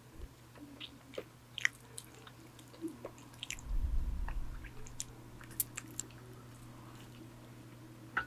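Close-miked chewing of a donut, with scattered short sharp mouth clicks and a brief low rumble about four seconds in. An electric fan hums steadily underneath.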